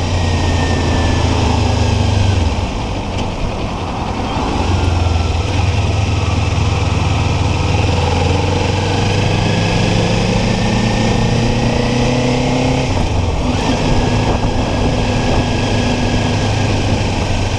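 Kawasaki Ninja 400's parallel-twin engine running on the road under a steady hiss of riding wind. It eases off briefly about three seconds in, then pulls with rising pitch and drops back about thirteen seconds in.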